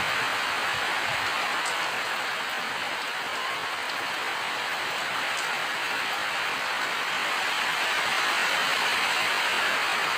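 Steady rain falling, an even hiss of drops that holds at a constant level.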